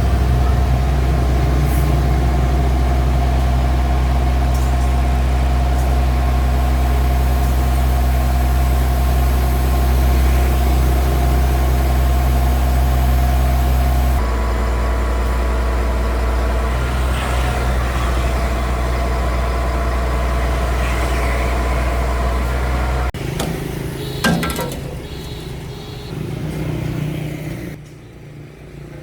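Heavy diesel truck engine running steadily, a concrete pump truck at work. Its note shifts about halfway through. About three-quarters of the way through it drops to a quieter, lower running sound.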